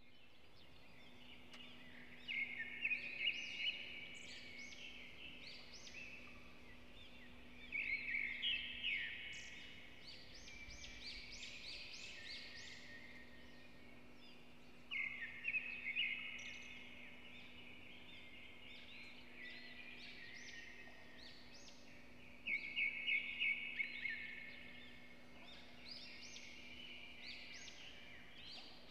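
A bird singing in four louder bursts of quick chirping notes, each about two seconds long, with fainter notes between them, over a faint steady hum.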